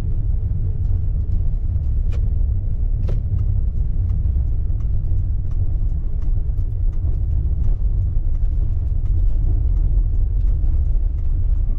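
Maruti Alto K10 car on the move, heard as a steady low engine and road rumble, with a couple of faint clicks about two and three seconds in.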